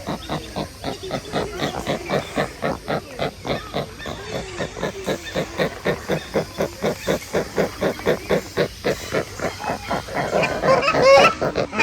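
Birds giving rapid, evenly repeated grunting calls, about three or four a second; near the end, louder honking calls break in.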